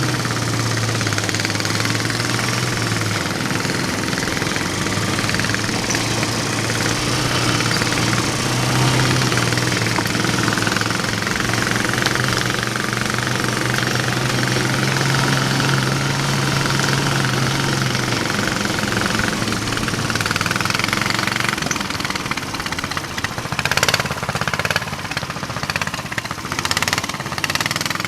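Mini-bike trike's 420cc single-cylinder engine running at steady part throttle, its pitch shifting a little. Near the end the engine eases off and a few sharp knocks are heard.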